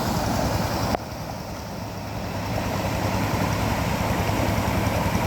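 Rice-field tractor engine running steadily. It drops suddenly in level about a second in, then builds back up.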